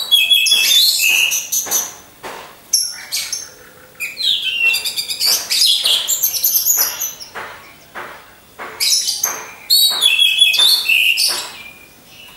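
Orange-headed thrush (anis merah) singing: fast, varied phrases of high whistles and sharp chattering notes, in several loud bursts separated by short pauses.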